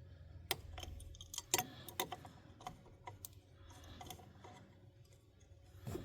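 Small sharp clicks and taps of hand tools and parts being handled while a heater blower motor is taken apart, coming irregularly, bunched in the first couple of seconds and sparser after.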